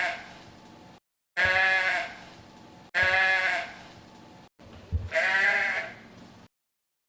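An animal bleating: three loud, drawn-out calls about a second and a half apart, each fading away, with the tail of an earlier call at the start. Gaps of dead silence lie between the calls.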